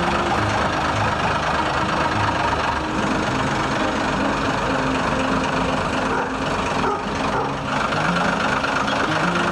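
Heavy vehicle engine running steadily, its low pitch shifting slightly, with a brief dip in level about six to seven and a half seconds in.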